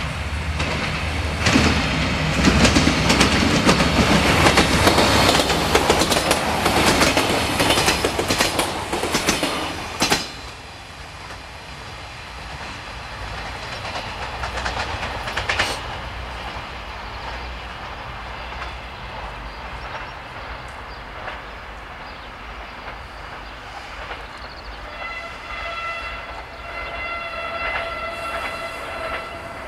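Siemens Desiro diesel multiple unit passing close, a loud rolling rumble with wheel clicks, cut off suddenly about ten seconds in. Then a quieter distant train rumble, and near the end a train horn sounds twice.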